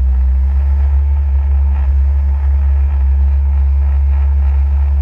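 Jet ski engine running at a steady speed, a constant low drone with water noise over it.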